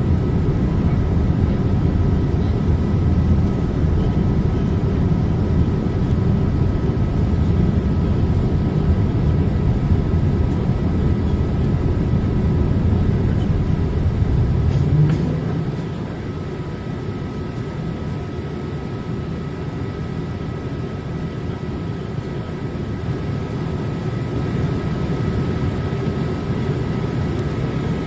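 Steady engine and airflow noise heard inside the cabin of a Boeing 787-8 Dreamliner in flight, with a few faint steady tones above it. About halfway through, the noise drops noticeably in level, then slowly builds again near the end.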